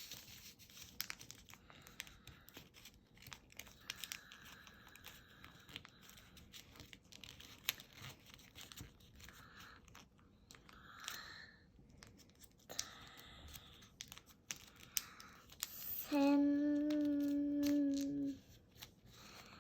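A square of origami paper being folded and creased by hand: soft rustling and crinkling with many small clicks as the folds are pressed down. Near the end a voice holds one steady hummed note for about two seconds.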